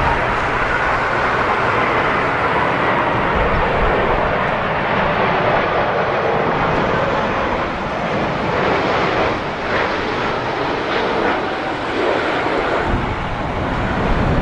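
Jet airliner engines running on approach, a steady rumble with a faint whine, mixed with strong gusty wind buffeting the microphone.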